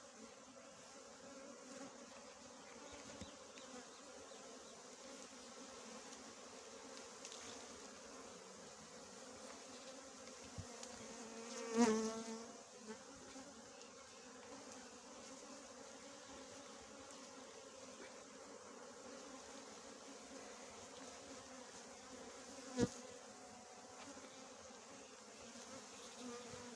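Small honeybees buzzing steadily around their disturbed nest. A louder buzz swells and fades about halfway through, and there is a single sharp click near the end.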